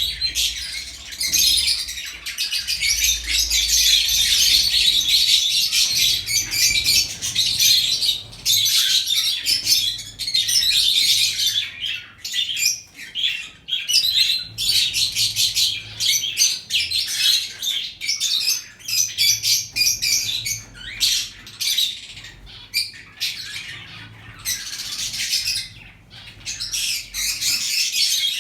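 Many caged birds in an aviary chirping and squawking at once: a dense, unbroken chatter of rapid high calls.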